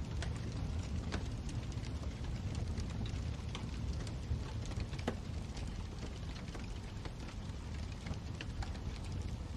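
Wood fire burning in a fireplace: a steady low rumble of the flames with frequent small crackles and pops, a sharper pop about five seconds in.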